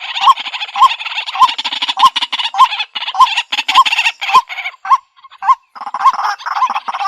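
White-breasted waterhen calling: a rough, repeated 'kwak' note about twice a second, breaking off briefly about four and a half seconds in and then resuming.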